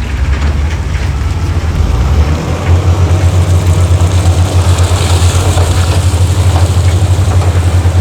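Heavy diesel engine of earthmoving machinery running with a steady low throb, growing louder about two and a half seconds in.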